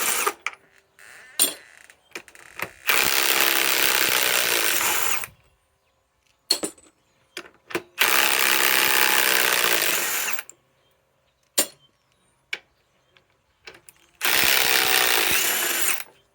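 Ryobi PSBIW25 compact cordless impact wrench hammering as it backs galvanized lag screws out of wood. It comes in three runs of about two and a half seconds each, with short sharp clicks between them.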